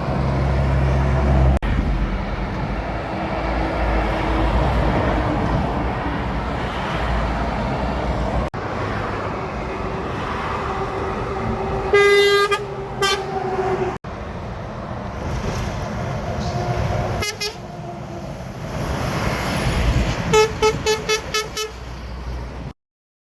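Trucks passing on a highway with engine and tyre rumble, and several horn blasts: a long one about halfway through, a shorter one just after, another a few seconds later, then a quick run of about seven short toots near the end.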